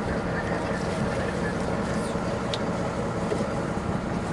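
Steady low rumble and hiss on the deck of a sailing ship underway: wind and water noise, with a faint steady hum under it.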